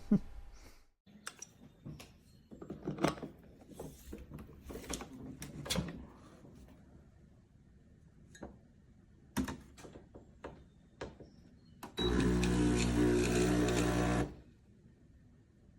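Knocks and clicks of the espresso machine being handled, then its electric pump runs with a steady, loud buzz for about two seconds before cutting off abruptly.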